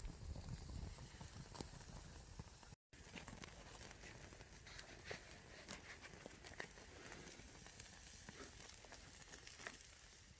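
Faint crackling of a small wood fire in a Bushbox twig stove, with scattered small pops and clicks.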